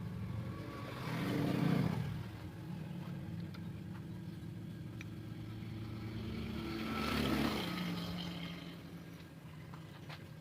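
Motor vehicle engines: a steady low engine hum, with two vehicles swelling louder and fading away, about a second and a half in and again near seven seconds.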